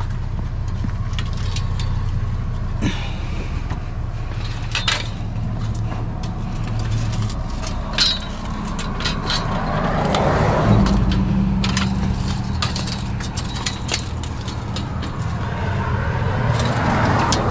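A vehicle's engine running steadily, with scattered clicks and rattles and two swells of road or passing-traffic noise, about ten seconds in and again near the end.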